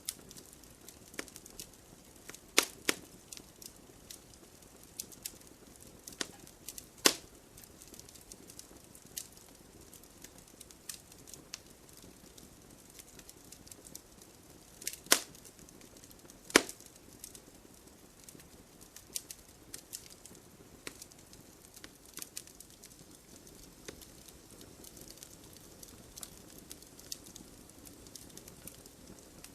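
Wood fire burning in a fireplace, crackling with frequent small pops over a soft low hiss. A few much louder sharp snaps stand out: two close together near the start, one shortly after, and two more around the middle.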